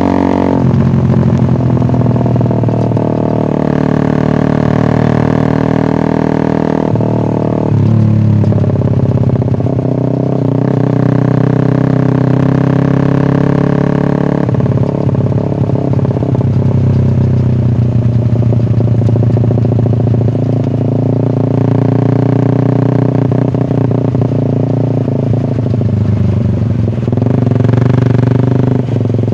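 Suzuki Satria F150 fuel-injected single-cylinder engine running loud through an aftermarket SC Project exhaust. The revs rise and fall, with the engine note dropping abruptly several times.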